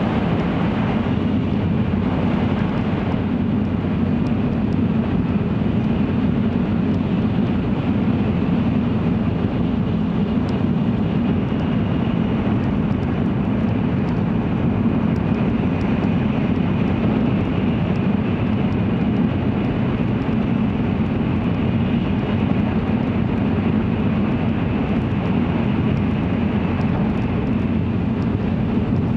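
Cabin running noise of an N700 series Shinkansen at speed: a steady low rumble with hiss over it and a faint high whine, even throughout.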